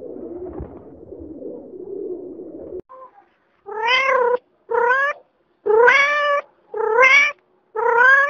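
Rock pigeons cooing low and continuously for about the first three seconds, then a tabby kitten meowing five times, each meow about half a second to a second long and rising a little in pitch.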